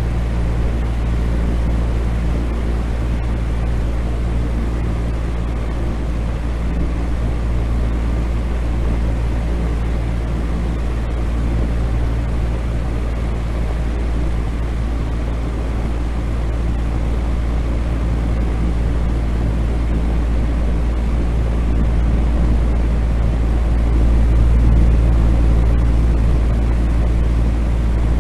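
Continuous sleep-noise track: a steady deep rumbling drone with a faint hum in it, swelling slightly about 24 seconds in.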